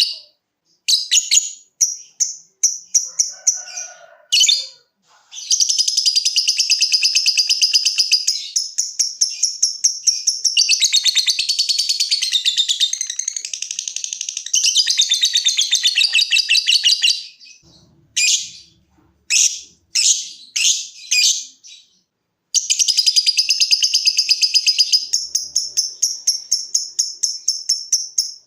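Lovebird ngekek: long, rapid, high-pitched chattering trills that run for several seconds at a time, broken in places by short separate bursts.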